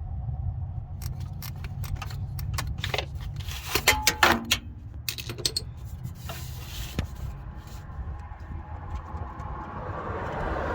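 Metal hand tools clinking and clicking against the engine while bolts are worked loose, with a short metallic ring about four seconds in, over a steady low rumble.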